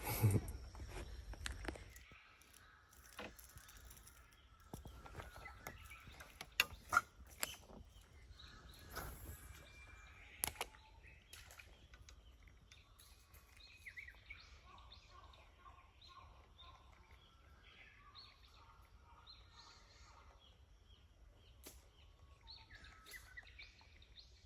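Wild birds chirping and calling now and then over quiet outdoor background noise, with a few sharp clicks or knocks in the first half.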